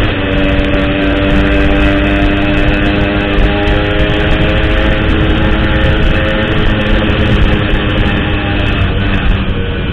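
Motorcycle with an Altech C17 aftermarket exhaust running at a steady cruising speed, a steady pitched engine-and-exhaust tone over a low rumble that eases off near the end.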